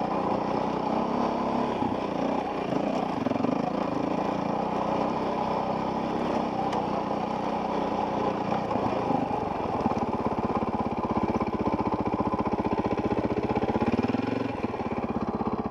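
Dirt bike engine running while riding a trail, recorded on a helmet camera. About two-thirds of the way in it settles into an even, fast pulsing, as at low revs.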